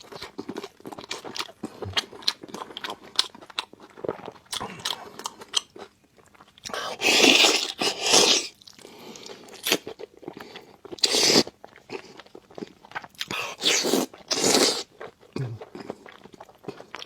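Close-miked chewing and biting of pork knuckle: a steady run of wet mouth clicks, with three louder bites or slurps partway through and near the end.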